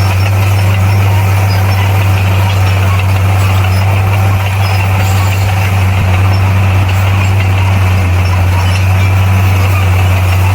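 Bulldozer's diesel engine running with a steady, unchanging low drone.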